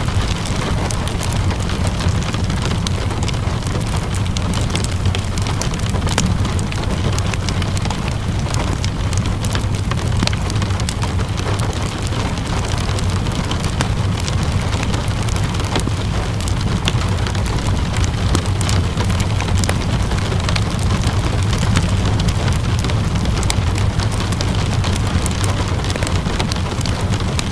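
Steady rainfall with a low, even rumble underneath, scattered with many small sharp pops and crackles of a wood fire burning.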